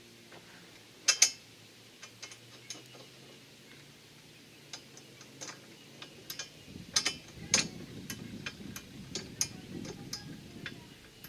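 Irregular light metallic clicks and clinks of nuts being threaded by hand onto the strut tower studs, with two sharper clicks about a second in and a busier run of clicks in the second half, accompanied by low handling noise.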